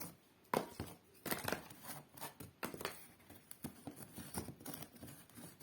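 Cardboard and paper being pulled apart and handled: an irregular run of rustles, scrapes and sharp snaps as glued cardboard bricks are peeled off a cardboard fireplace.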